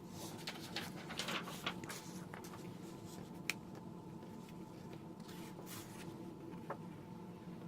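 White embossing powder being poured over a card and the paper handled: faint rustling and sprinkling hiss in short stretches, with a couple of light clicks. A faint steady hum sits underneath.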